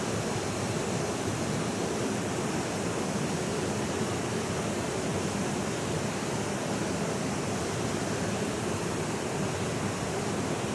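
Waterfall, a steady full rush of falling water with no breaks.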